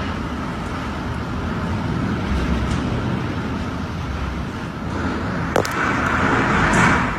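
Typhoon wind and rain: a steady rushing noise that swells in a gust near the end, with one sharp knock about five and a half seconds in.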